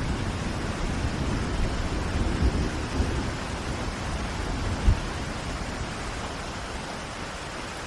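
Steady rain in a city, with a low rumble of thunder slowly dying away and a brief low thump about five seconds in.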